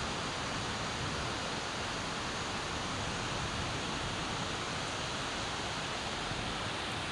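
Steady, even hiss of heavy monsoon rain falling, with no thunder in this stretch.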